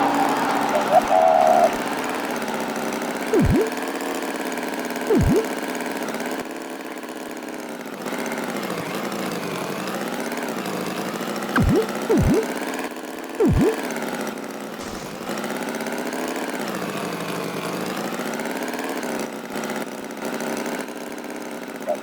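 A motor running steadily, its pitch wavering up and down, with short falling thumps now and then, some of them in quick pairs.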